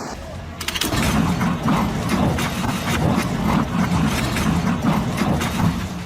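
A large engine running hard, starting about a second in, with a rough, pulsing beat.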